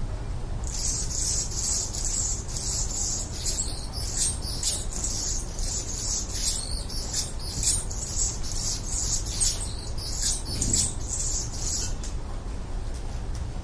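Baby owl making rapid, high-pitched hissing chitters, many short calls in quick succession, over a steady low rumble; the calling stops about a second and a half before the end.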